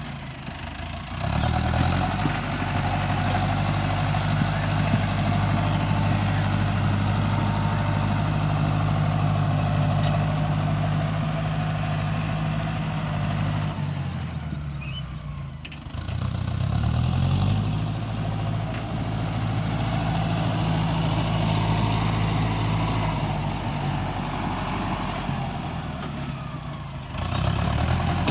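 Kubota M6040 tractor's diesel engine working. It revs up about a second in and holds a steady note, eases off about halfway through, then revs up and holds again before easing off once more near the end.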